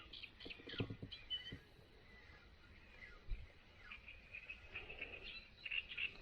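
Small birds chirping and twittering faintly, with a few soft knocks in the first second.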